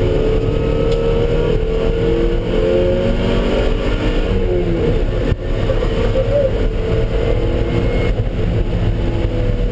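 Car engine being driven hard on a race track, its pitch rising and falling as it accelerates and eases off, with a brief break in the sound a little past halfway.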